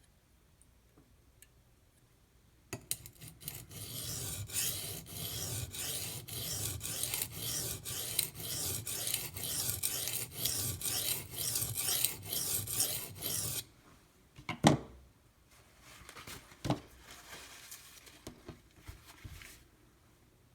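D2 steel knife blade stroked back and forth on a coarse 150-grit oil stone: about ten seconds of steady rasping in quick repeated strokes. The strokes then stop, followed by two sharp knocks and some lighter scraping.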